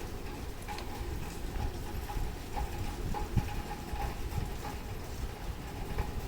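Light, irregularly spaced clicks and small knocks from work on a grandfather clock movement, over a low rumble.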